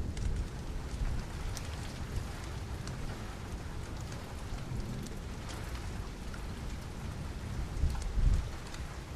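Steady rain mixed with the scattered sharp crackles of a wood fire, over a low rumble that swells briefly near the end.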